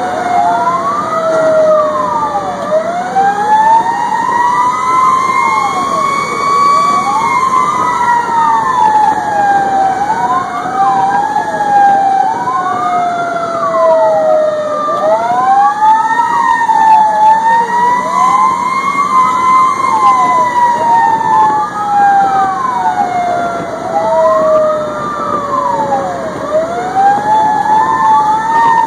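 Fire engine sirens sounding during an emergency response. Two tones overlap: one slowly rises and falls, and another sweeps up and down about every two seconds, over the truck's running noise.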